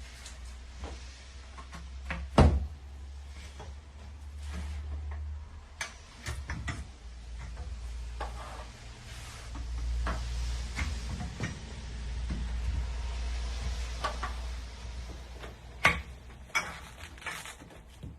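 Parts of an elevated dog bed being handled and fitted together during assembly: scattered knocks and clicks over a low rumble, with a sharp knock about two and a half seconds in and another near the end.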